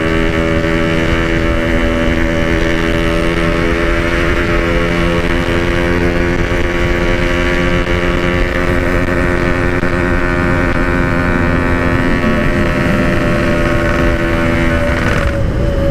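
Yamaha RX King two-stroke single running at a steady cruising speed through its side-mounted standard-style exhaust, with wind rushing over the microphone on the moving bike. The steady engine note breaks off about fifteen seconds in.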